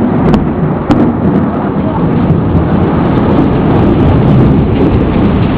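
Thunder rolling steadily through a rainy thunderstorm: a loud, continuous low rumble, with two sharp clicks in the first second.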